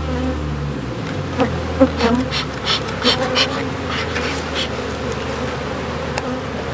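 Honey bees buzzing around an opened hive, a steady hum. About a second and a half in come several sharp clicks and scrapes, lasting a few seconds, as hive frames are pried loose and lifted out.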